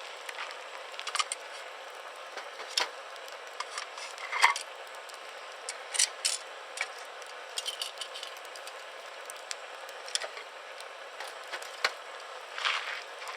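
Wood campfire crackling: irregular sharp pops and snaps over a steady soft hiss, with the loudest pop about four and a half seconds in.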